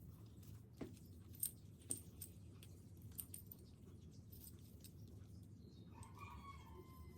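A few light, sharp clicks and taps of small metal drill parts being handled, spaced irregularly over the first few seconds. Near the end, a chicken calls briefly in the background.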